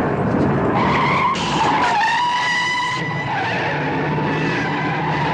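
Airliner tyres screeching and skidding on the runway under hard braking, a high squeal over a loud rushing rumble.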